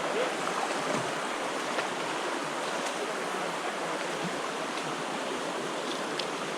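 Freshwater creek running, a steady rushing of water with no break.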